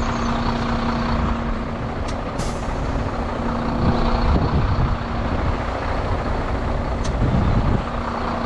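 Heavy recovery truck's engine running with a steady hum while its hydraulic stabiliser legs are lowered. A short hiss comes about two and a half seconds in, and a sharp click near the end.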